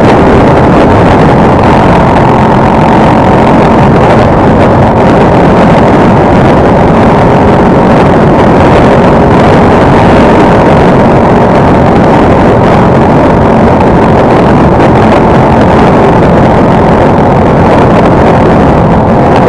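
Motorcycle engine running steadily at cruising speed, loud and even, mixed with wind noise on the microphone.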